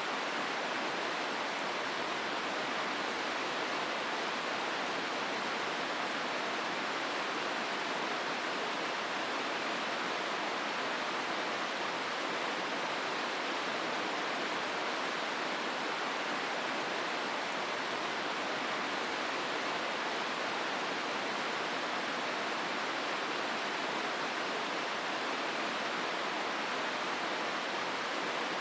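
Hozu River rushing steadily through the rocky gorge, an even wash of flowing water with no breaks.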